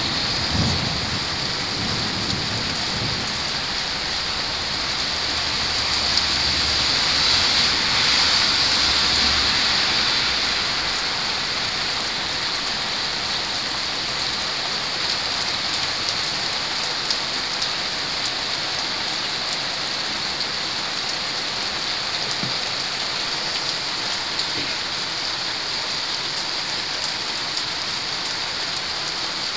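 Rain falling steadily on roofs during a thunderstorm, with a low rumble of thunder that fades away over the first ten seconds or so.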